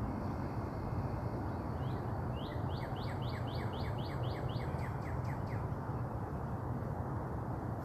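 A songbird sings a rapid series of short, identical chirped notes, about four a second for roughly three seconds, fading out at the end. A steady low background noise runs under it.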